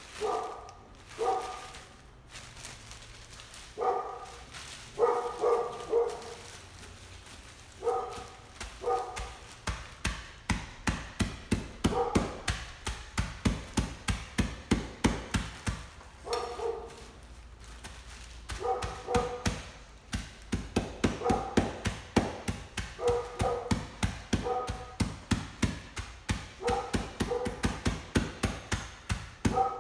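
Rapid pounding, about two to three blows a second, from pretzels being smashed to crumbs in a bag. It starts about a third of the way in, with a short break in the middle. A dog barks in short pairs, alone at first and then between the blows.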